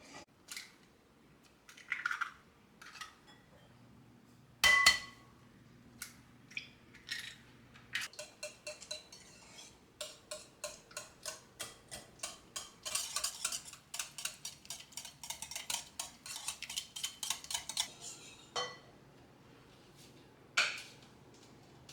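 Kitchenware being handled: dishes and utensils clink and knock. A single loud ringing clink comes about five seconds in, then a run of quick light taps, several a second, goes on for about ten seconds.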